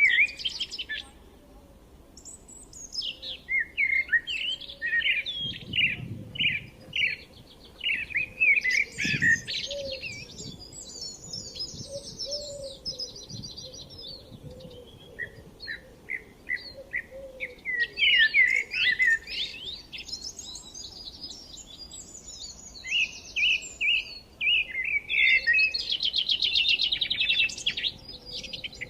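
Songbirds chirping and singing: many short chirps mixed with fast rattling trills, coming in bursts with brief pauses between.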